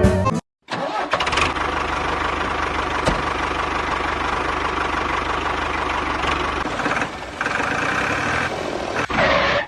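A motor running steadily with a fine, even low pulse, its sound shifting a couple of times near the end.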